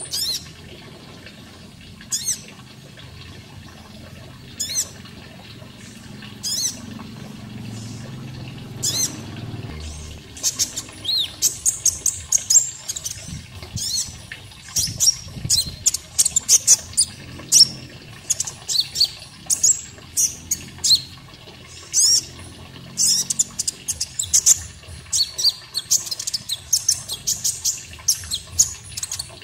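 Konin bird calling with sharp, high chirps. They come singly every couple of seconds at first, then from about ten seconds in as rapid, dense runs. A faint wash of running water sits underneath.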